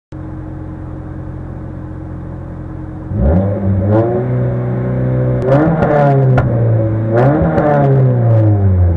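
Toyota Corolla FX-GTi rally car's four-cylinder engine heard from inside the cabin, idling steadily, then revved hard about three seconds in, its pitch climbing and dropping several times, with a few sharp clicks in between.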